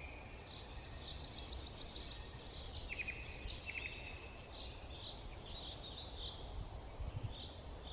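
Rainforest ambience: high-pitched animal calls, mostly rapid trilling runs of chirps in the first two seconds, then scattered chirps and a slower repeated call near the end, over a faint low hum.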